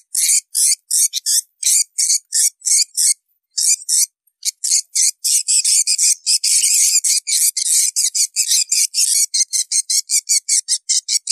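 Recorded swiftlet calls: a rapid series of high-pitched twittering chirps, several a second, pausing briefly about three seconds in and then running denser. This is the kind of call track played in swiftlet houses to lure the birds in to nest.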